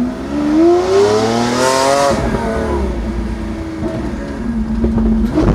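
Lamborghini V12 engine accelerating hard, its pitch climbing steadily for about two seconds. The throttle then lifts and the note falls away into a low rumble, holds steady, and rises briefly again near the end.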